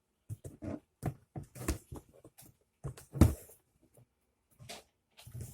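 Irregular knocks, clicks and clatter of a light plastic lantern being handled, with one louder knock about three seconds in.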